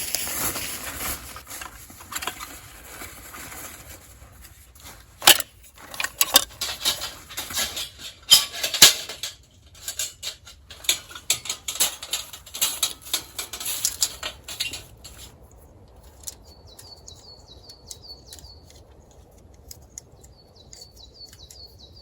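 Camping gear being handled: rustling with many clicks and knocks, a few of them sharp and loud, for about fifteen seconds. Then the handling stops and a small bird chirps over and over.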